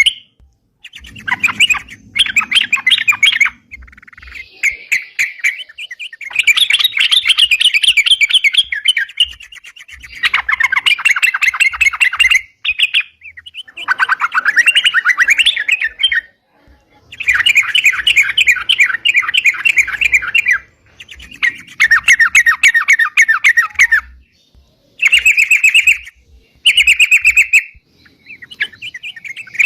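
Yellow-vented bulbul (crucukan) singing hard, the lively 'gacor' song: fast chattering phrases of one to four seconds, repeated with short pauses between. This is the kind of song bird-catchers play as a lure.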